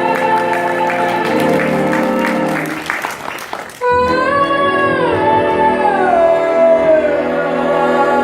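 Live band with a horn section holding a sustained chord that fades away, then a female vocalist sings a long held phrase that steps and slides down in pitch over soft sustained backing.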